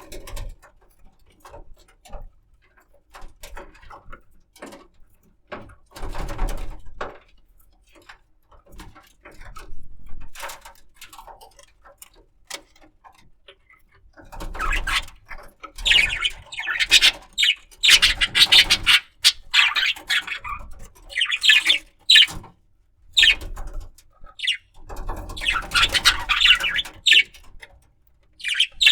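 Budgerigar chattering and warbling in rapid chirps, in long runs through the second half, after scattered small scratches and rustles.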